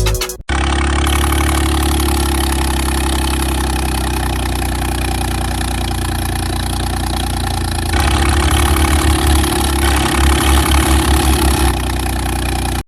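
Truck engine idling steadily, then chugging in a quick rhythmic pulse from about eight seconds in until shortly before the end.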